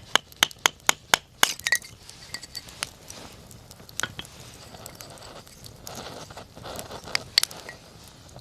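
Wood campfire crackling: a quick run of sharp pops in the first second and a half, then scattered pops, with a cluster near the end, over a soft hiss of the flames.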